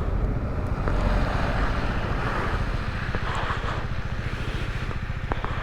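Bajaj Dominar 400's single-cylinder engine running steadily while riding, with a steady rush of wind noise on the microphone.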